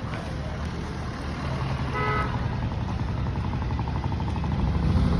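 Road traffic rumbling steadily, with a short vehicle horn toot about two seconds in, followed by a fast pulsing tone.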